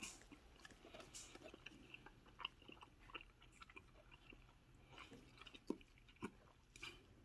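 Faint chewing of rotisserie chicken with chimichurri sauce: soft, irregular mouth clicks and smacks, a few louder ones near the end.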